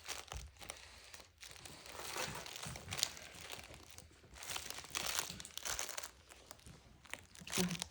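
Young puppies moving and playing about, with intermittent crinkling and rustling and a sharp click about three seconds in.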